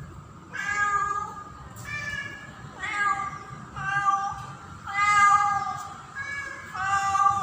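Female cat in heat calling for a male: a string of about seven loud, drawn-out meows, roughly one a second, each held for most of a second.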